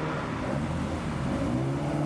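Classic Ford car engine accelerating away, its note rising again near the end.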